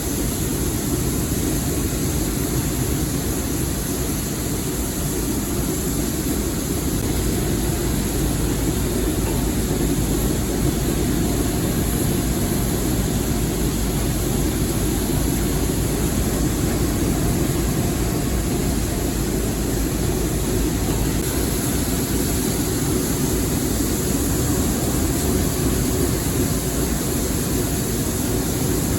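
Steady rumble and hiss of a moving train, unchanging for the whole stretch.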